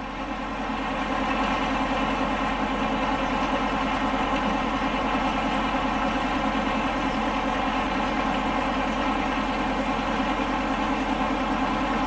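A large engine running steadily at a constant speed, growing louder over the first second or so and then holding even.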